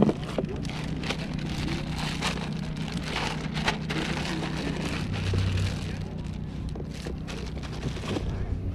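Water splashing and lapping against a kayak hull as it moves, an irregular crackling patter over a steady low hum.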